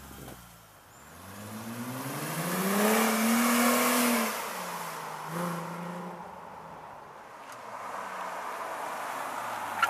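Chrysler Crossfire's 3.2-litre V6 through an aftermarket stainless-steel exhaust, revving: the pitch climbs for about two seconds, holds at its loudest, then drops off sharply about four seconds in. A short blip of the throttle follows, and the engine slowly rises again near the end.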